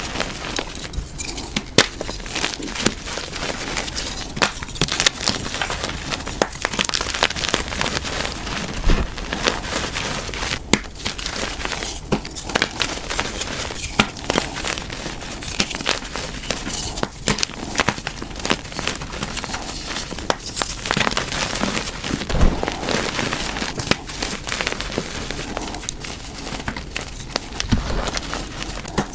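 Reformed dyed gym chalk being crushed, crumbling with a dense, irregular run of crunches and crackles.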